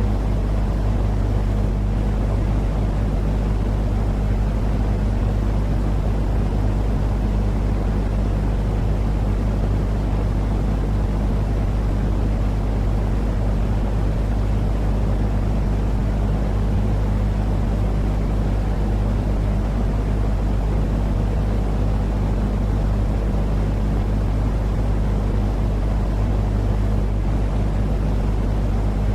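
Steady, unchanging sleep noise for soothing a baby: a deep rumbling hiss with a constant low hum in it, much like the drone of an engine.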